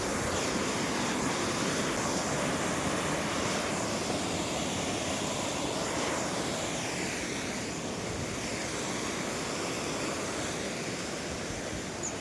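Waterfall's rushing water, a steady unbroken noise that eases slightly in the last few seconds.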